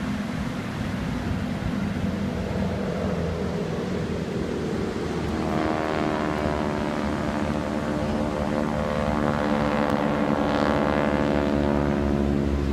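Propeller airplane flying past: a low drone that, about halfway through, becomes a stronger engine hum whose pitch bends as the plane passes.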